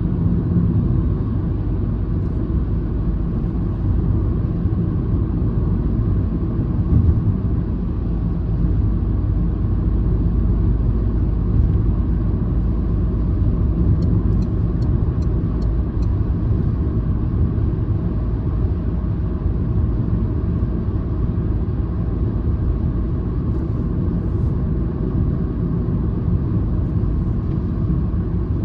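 Citroen C-Elysee's 1.2-litre three-cylinder EB2 PureTech petrol engine and its tyres give a steady low rumble while the car drives at fairly constant speed, with no marked revving.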